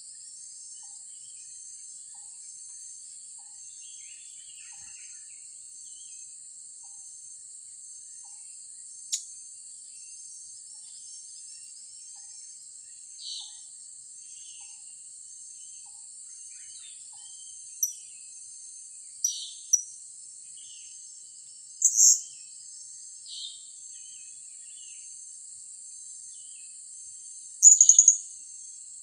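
Blue-crowned hanging parrots (serindit) giving short, sharp, high-pitched calls at irregular intervals. The loudest comes about two-thirds of the way through, and a quick run of calls follows near the end, over a steady high buzz of insects.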